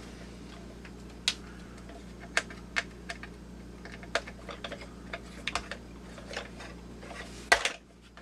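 Irregular light clicks and taps of a Phillips screwdriver working screws out of a hard plastic housing, with a louder clatter about seven and a half seconds in.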